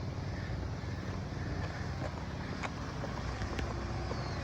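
Mini bike engine running steadily, a low rumble, with wind noise on the microphone.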